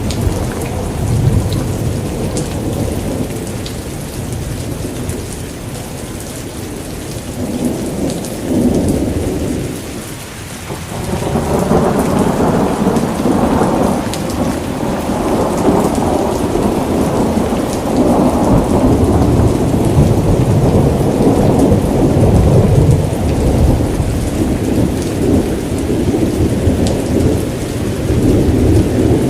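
Rain falling through a thunderstorm, with thunder rumbling low and rolling. The rumble dips briefly, then swells again about eleven seconds in and keeps rolling.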